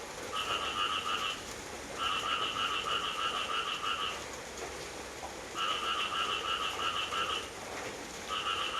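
A frog calling in rapid pulsed trills, three bouts of one to two seconds and a fourth starting near the end, over the steady hiss of rain.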